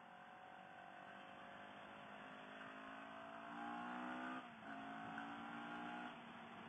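CFMoto CL-X 700's parallel-twin engine pulling under acceleration, its pitch rising steadily, then dropping suddenly about four and a half seconds in as it shifts up a gear, then running on at the lower pitch.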